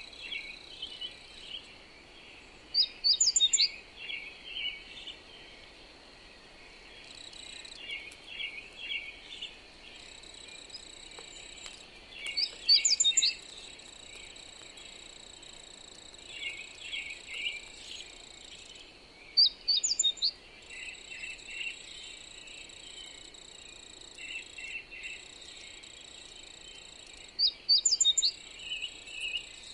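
Birdsong: a loud, short phrase of quick high notes repeats four times, about every eight seconds, among softer scattered chirps. Beneath it runs a steady high insect drone like crickets.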